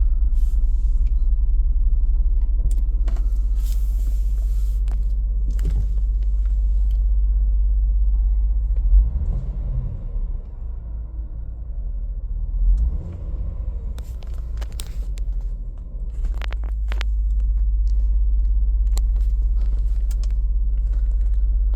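2019 Range Rover Sport HSE engine idling, a low steady rumble, with a few sharp clicks and knocks over it. The rumble eases off for several seconds in the middle, then comes back.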